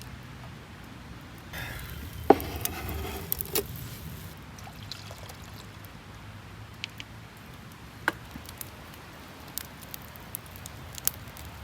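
Wood campfire crackling, with scattered sharp pops. About two seconds in there is a short burst of clattering and rustling with one loud snap.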